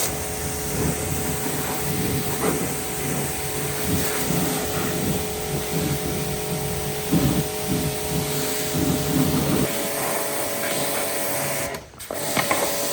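An electric power tool or workshop machine running steadily with a motor hum, its pitch shifting slightly about ten seconds in, and a short break just before the end.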